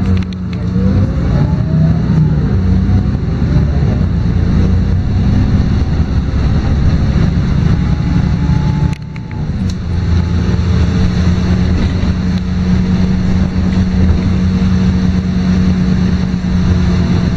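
Diesel engine and drivetrain of a LiAZ-5292.22 city bus heard from inside the cabin while driving: a steady drone with road noise that drops briefly about nine seconds in.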